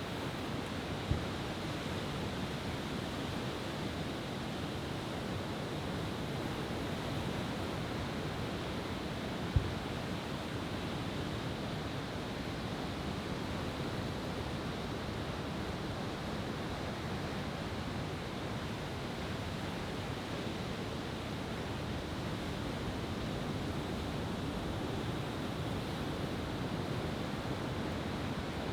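Steady sea surf washing on a beach, an even rushing noise. Two brief low thumps break through, about a second in and about nine and a half seconds in.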